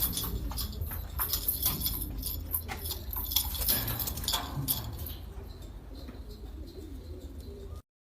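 Domestic pigeons cooing, with scattered sharp clicks over a steady low hum. The sound cuts off abruptly near the end.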